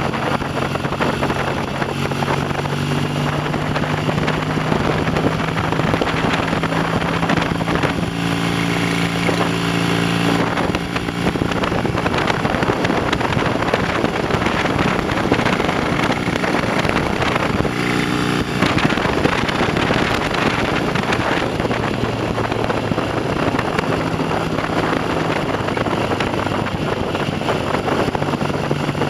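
Classic motorcycle engine running on the road, its note rising and falling several times, with wind noise on the microphone.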